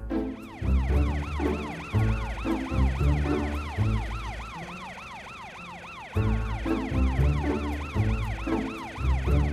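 Emergency-vehicle siren in a rapid yelp, rising and falling about three times a second, over background music with a heavy bass beat that drops out for a couple of seconds midway.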